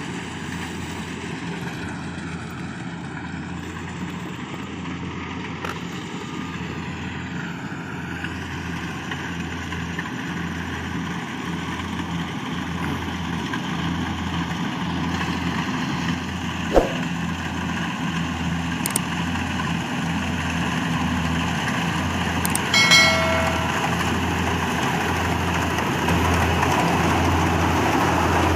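Rice combine harvester running steadily, its engine drone growing slowly louder. There is a single sharp click about 17 seconds in and a short pitched blip near 23 seconds.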